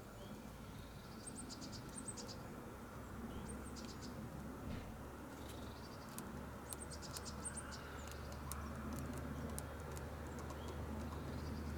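Blue tit at a feeder: sharp taps of its beak hammering a sunflower seed, scattered through the second half, with high, thin bird calls in short quick clusters of notes a few times.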